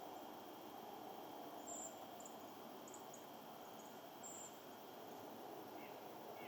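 Faint, very high, thin bird calls: a couple of short squeaky notes and a few quick chips, over a steady soft hiss.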